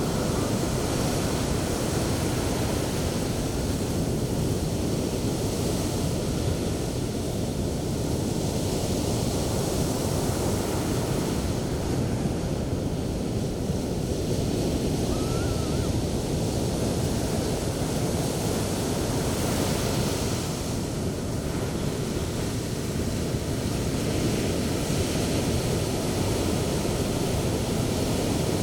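Sea surf breaking and washing onto the beach, a steady rush of white water that swells and eases every several seconds.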